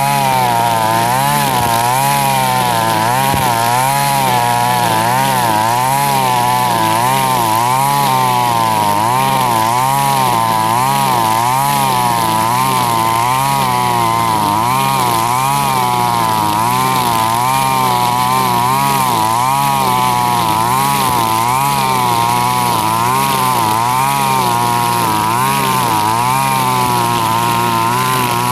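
Two-stroke backpack brush cutter, a Husqvarna 542RBS, running at high speed while cutting grass with nylon trimmer line. The engine pitch rises and falls about once a second as the throttle and load change.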